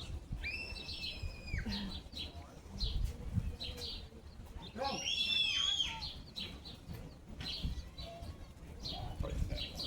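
Birds calling: two long, high whistled notes of about a second each, about half a second and five seconds in, with short chirps scattered throughout.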